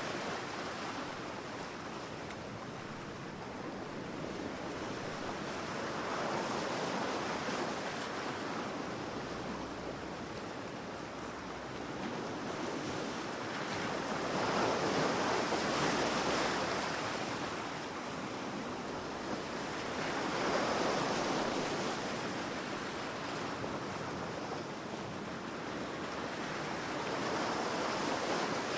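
Ocean waves breaking and washing up on a beach, swelling and fading in slow surges every five or six seconds.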